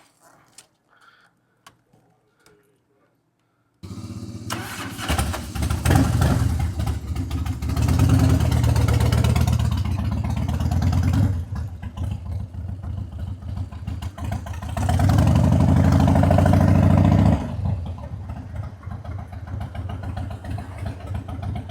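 Harley-Davidson Dyna motorcycle's V-twin engine coming in suddenly about four seconds in and running, revving up in two long pulls with easier running between and after. A few faint clicks before it.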